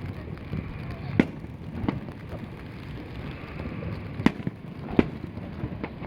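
Aerial fireworks shells bursting: about four sharp bangs, the loudest a little over a second in and twice more near the four- and five-second marks, over a steady background hiss.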